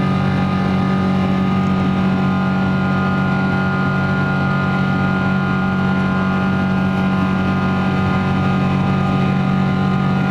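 Boeing 777-200ER's Rolls-Royce Trent turbofan engines heard from inside the passenger cabin: a loud, steady drone with several steady whining tones over a deep hum.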